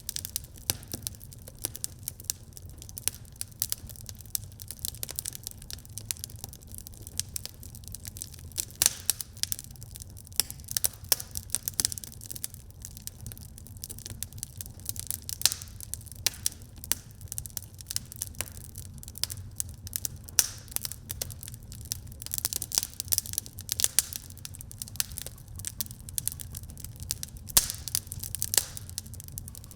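Wood fire burning in a fireplace, crackling and popping constantly with many sharp irregular snaps over a low steady rumble of the flames.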